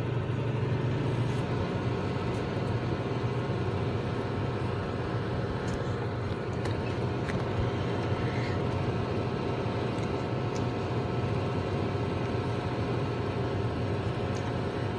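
A 2003 GE Spacemaker microwave oven running on a popcorn cook: a steady low hum from the oven's transformer and fan, with a few faint ticks.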